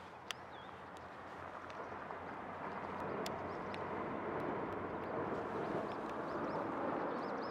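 Kyoto Tango Railway diesel train approaching across a long steel girder bridge, its rumble growing steadily louder. Birds chirp briefly over it.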